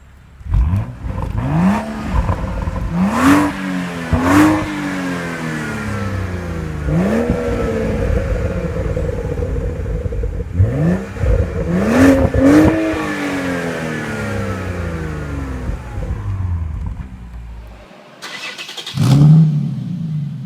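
A car engine revved repeatedly through an aftermarket performance exhaust. Each blip rises sharply in pitch and falls back, several times over, with a steadier spell in between. Near the end there is a short break and then another rev.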